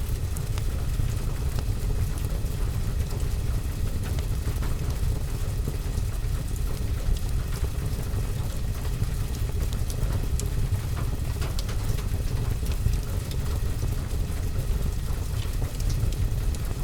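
Fireplace-and-rain ambience: a steady hiss of rain on a window and roof over a low, even rumble, with scattered small ticks and crackles from the fire.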